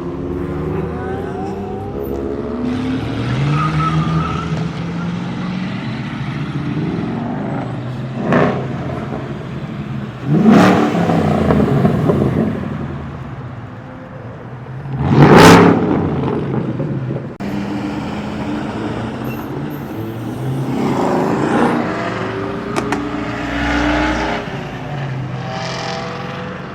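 Cars driving past one after another with their engines revving, the loudest passes coming about ten and fifteen seconds in.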